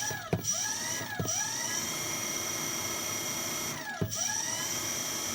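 Car alternator converted into an electric motor, spinning freely with no load and giving off a steady high whine. Its pitch dips briefly and climbs back a few times, near the start and again about four seconds in.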